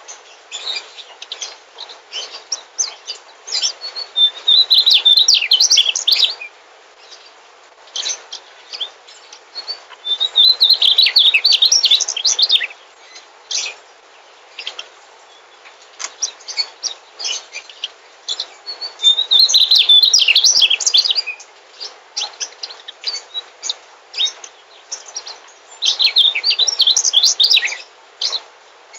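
Mugimaki flycatcher singing: four bursts of rapid, high twittering, each about two seconds long, come several seconds apart, with scattered short chirps between them.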